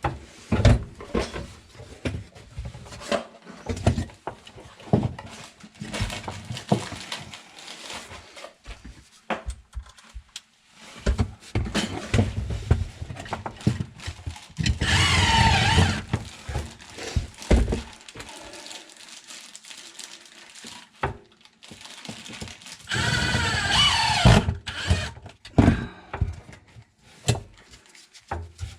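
Tools and parts being handled, with repeated knocks and clatter. Twice, about halfway through and again near the end, a power tool's motor whirs for about a second with a wavering whine.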